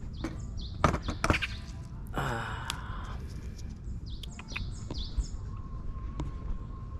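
Songbirds singing in the trees: a run of short, high chirps, each sliding down in pitch, repeating from about four seconds in. Before that come a few sharp knocks close to the microphone and a short breathy sigh about two seconds in.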